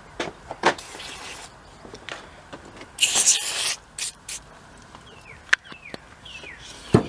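Aerosol can of PB Blaster penetrating oil spraying in two bursts, a short one about a second in and a longer, louder one about three seconds in, to free bearings stuck on the pump shafts by rust. A few sharp clicks and knocks of metal parts being handled, and short descending bird chirps near the end.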